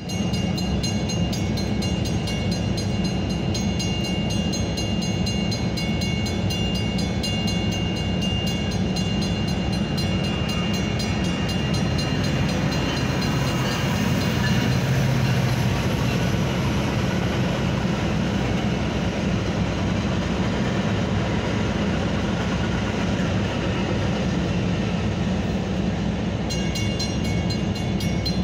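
Metra commuter train passing over a road grade crossing: a steady rumble, heaviest around the middle. The crossing bell rings rapidly near the start and again near the end.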